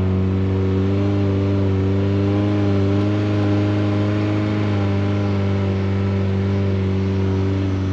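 Suzuki Samurai's four-cylinder engine running at a steady speed under way, heard as a constant drone from inside the cab, its pitch wavering only slightly.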